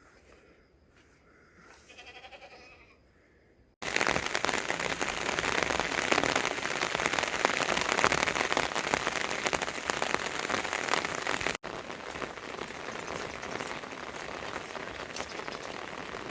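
Heavy rain falling, a dense even hiss that starts abruptly about four seconds in and steps down to a softer level with another sudden change near the end. Before the rain, in a quiet stretch, comes a brief bleat.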